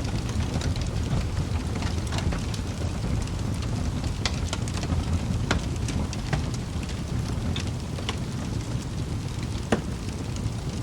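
Wood fire burning in a fireplace: a steady low rumble with scattered crackles and pops from the logs, and one sharper pop near the end.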